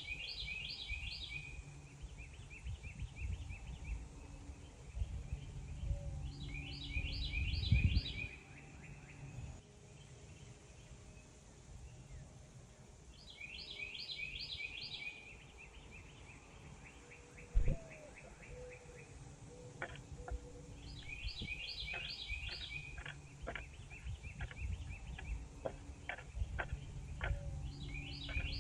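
A songbird repeating the same short song about every seven seconds: a quick burst of high, stacked notes followed by a slower, lower trill. A low rumble sits underneath, and there is a single sharp knock about two-thirds of the way through, followed by a few fainter clicks.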